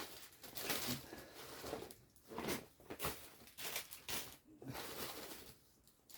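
Faint, irregular rustling and handling noises, as toys and their packaging are moved about and taken out of a bag.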